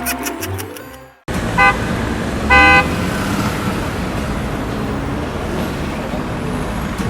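Music fades out, then a vehicle horn toots twice, a short note and a slightly longer, louder one a second later, over a steady rumble of motor and road noise.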